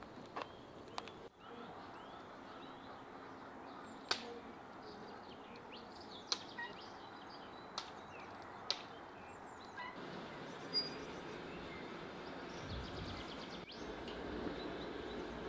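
Small birds chirping in the background, with several sharp clicks or knocks a second or two apart.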